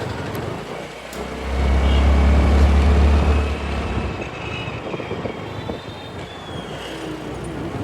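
Riding noise from a scooter in city traffic: a steady rush of engine, road and wind noise. A loud low rumble swells about a second and a half in, lasts roughly two seconds, then fades.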